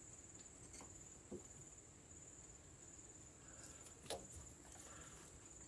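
Near silence with a faint, steady high-pitched insect trill, typical of crickets, and a single sharp click about four seconds in.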